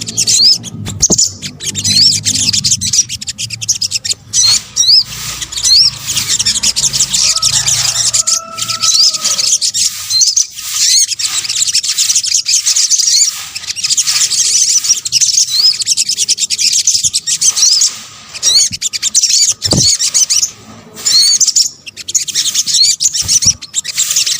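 Olive-backed sunbirds calling and singing: a dense, unbroken stream of high, thin, quick chirps and trills, with several voices overlapping. A low hum sits under the first few seconds.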